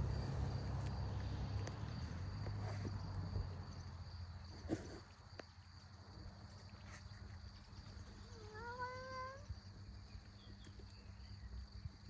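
Domestic cat purring, a low steady rumble over the first few seconds. About eight and a half seconds in, the cat gives a single short meow that rises at the start and lasts about a second.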